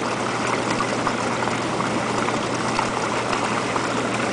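Hot tub running: the pump's steady hum under the constant bubbling and churning of water from the jets.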